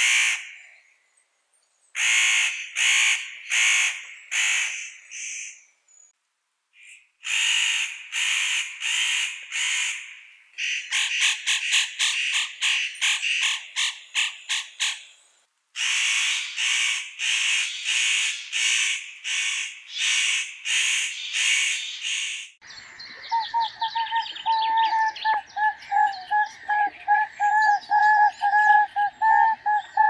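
Bouts of harsh bird calls, about two a second, with a faster rattling run in the middle. About three-quarters of the way in they stop, and a different bird's song takes over: steady warbling notes with chirps over them.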